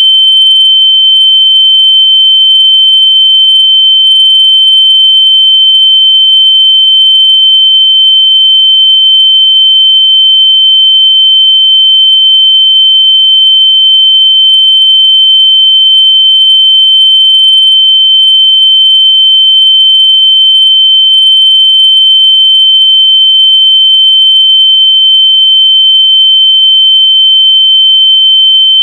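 A continuous, very loud, shrill electronic pure tone held at one pitch without a break. It is a locating noise meant to be played through lost AirPods so they can be found by ear.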